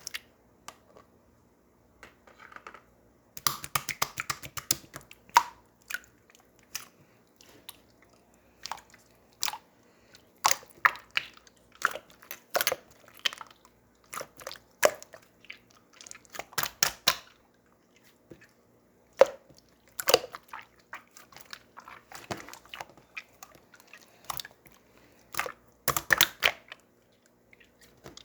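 Slime being pressed, stretched and squeezed by hand, giving irregular clusters of short crackling clicks and pops, starting in earnest about three seconds in.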